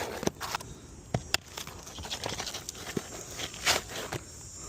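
Scattered light clicks and scrapes of asphalt laminate shingles being handled and lifted, with a longer scrape about three and a half seconds in; the shingles' double laminate layers are separating.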